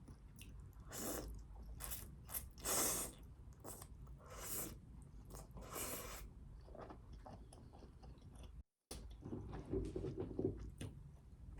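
Close-up eating sounds: a series of crisp, crunchy bites and chewing, with a cut about nine seconds in.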